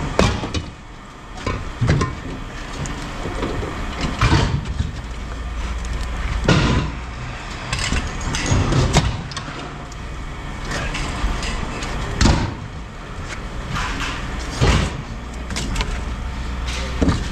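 Scrap metal being handled: loud metal bangs and clanks every two seconds or so, over the low running of a machine engine that rises and falls.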